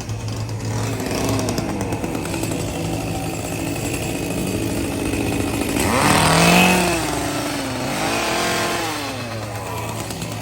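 A steady, motor-like drone, with a wavering sound that bends up and down in pitch from about six to nine seconds in.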